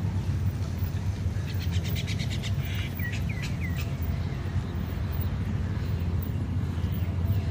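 A bird calling: a quick rattling chatter, then three short chirps, over a steady low rumble.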